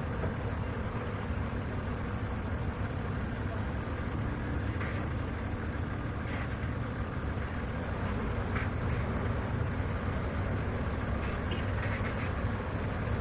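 Diesel truck engine running steadily, a low even rumble.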